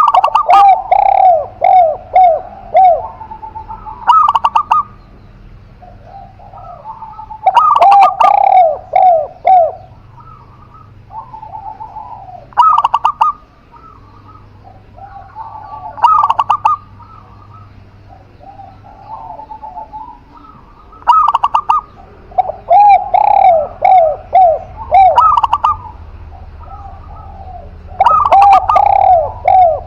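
Spotted dove and zebra dove cooing in repeated phrases of several quick curved notes, with short pauses between the phrases.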